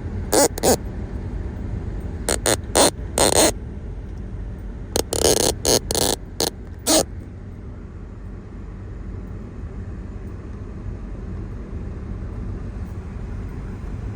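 Steady low rumble of a running vehicle, broken by about a dozen short, sharp bursts of noise during the first seven seconds.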